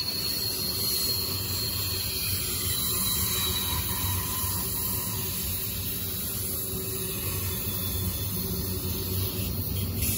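Double-stack intermodal container train's well cars rolling past at close range: a steady rumble of steel wheels on rail.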